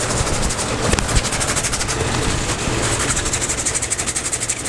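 Electric belt sander running steadily with a fast, even ticking, sanding a small wooden bowl.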